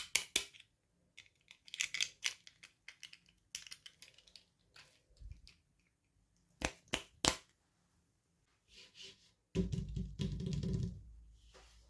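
Toy packaging being handled and opened: scattered sharp clicks and crinkles of plastic and cardboard, with a louder stretch of rustling and bumping near the end.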